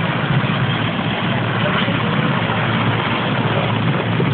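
Police helicopter's rotor and engine running loudly and steadily as it comes in to land.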